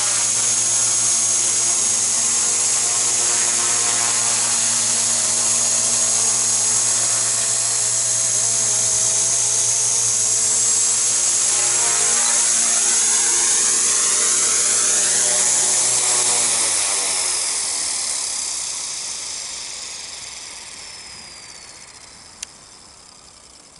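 Walkera Master CP micro RC helicopter with brushless main motors running with a steady high motor whine and rotor buzz. About 16 seconds in the motors are cut and spool down, the pitch sliding lower as the sound fades out. A single sharp click comes near the end.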